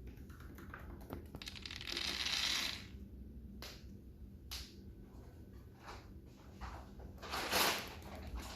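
Lovebirds eating seed: scattered small crunching clicks of seeds being cracked, with two longer rustling bursts, one about two seconds in and one near the end.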